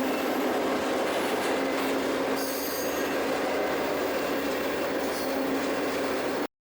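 Freight train running: a steady rumble and rattle of the rail car, with a brief high wheel squeal about two and a half seconds in. The sound cuts off abruptly near the end.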